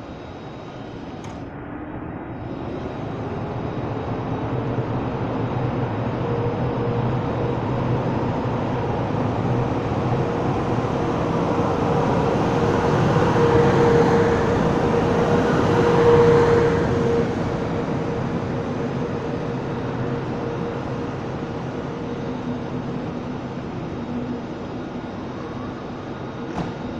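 DB class 111 electric locomotive hauling double-deck regional coaches, rolling slowly past along the platform. The rumble and a steady hum swell as the locomotive passes, peaking a little past halfway, then ease off as the coaches roll by.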